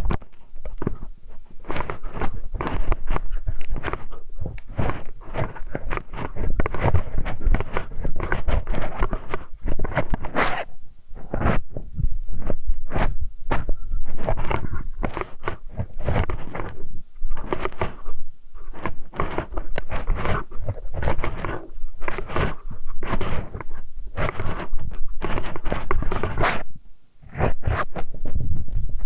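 Close-up ASMR ear-cleaning sounds: a tool scraping and rubbing at a binaural microphone's ear, stroke after stroke with short gaps.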